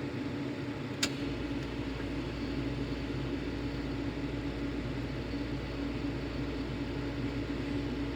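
A/C refrigerant recovery machine running steadily with a motor hum as it pulls R134a out of the system. There is a click about a second in, after which a deeper low rumble joins the hum.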